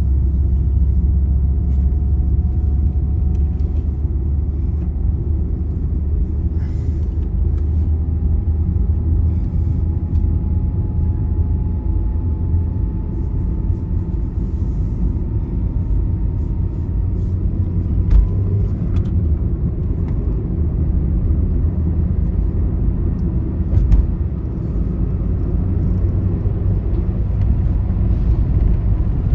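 A road vehicle driving on a highway: a steady low rumble of engine and road, with a faint whine that slowly rises in pitch as it goes. Two short knocks stand out, one a little past the middle and one later.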